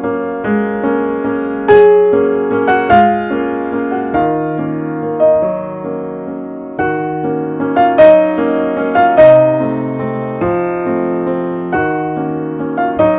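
Slow piano music: sustained chords under a simple melody, with a few louder accented notes.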